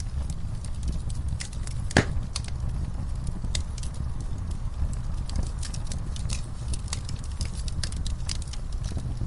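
Fireplace crackling, with irregular sharp pops of burning wood and one louder pop about two seconds in, over a steady low rumble and soft rainfall.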